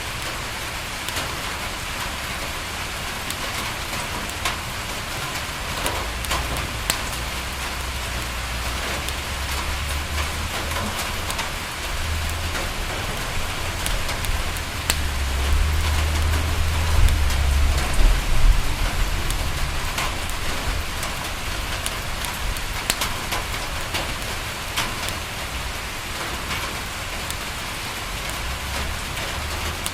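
Steady rain on a window pane, an even hiss with scattered sharp fireplace crackles. A low rumble builds through the first half, is loudest a little past the middle, then fades.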